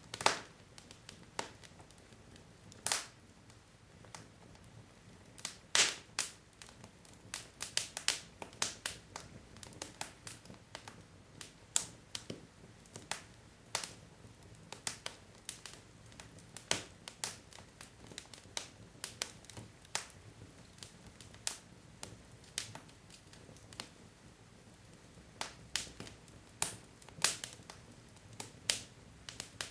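Wood logs burning in a fireplace: irregular sharp crackles and pops over a faint steady hiss of the fire, with a quick cluster of pops a few seconds in.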